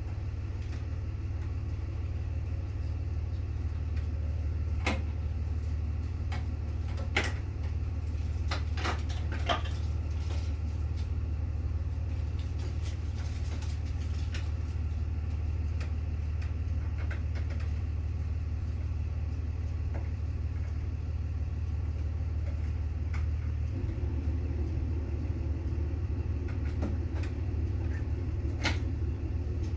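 A steady low rumble with a few sharp knocks and clicks, a cluster between about five and ten seconds in and one more near the end.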